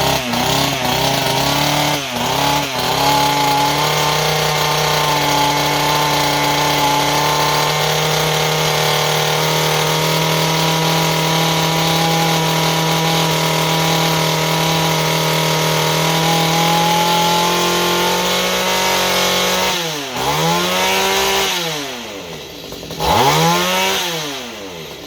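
Mantis mini tiller's small gasoline engine running at a steady speed after faltering for the first few seconds. Near the end its revs rise and fall twice and then drop away. It is a freshly rebuilt engine that is struggling to keep running.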